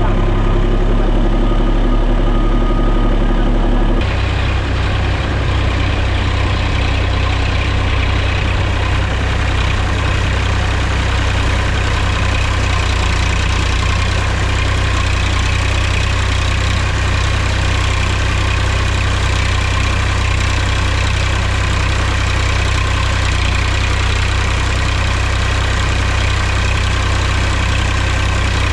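Mahindra tractor's diesel engine running steadily, with a strong low hum; its sound changes abruptly about four seconds in, then stays steady.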